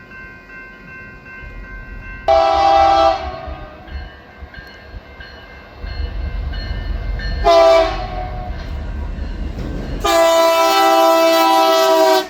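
Locomotive air horn sounding near the tracks: a short blast a couple of seconds in, another short blast past the middle, then a long blast near the end, over the low rumble of the approaching train.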